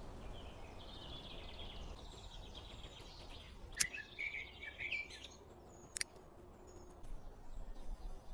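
Small birds chirping and warbling in woodland, with a low steady background rumble and two sharp clicks, the first about four seconds in and the second about two seconds later.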